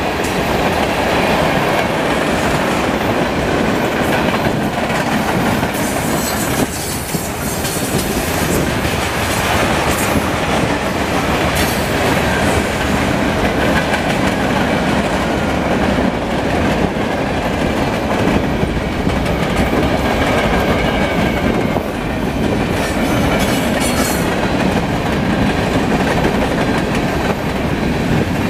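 Freight train cars rolling past at speed: a steady rumble of steel wheels on rail, with the clickety-clack of wheels striking rail joints.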